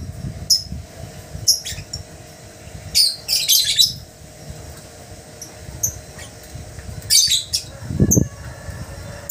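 Lovebirds giving short, high-pitched chirps in scattered clusters, with a low thump about eight seconds in.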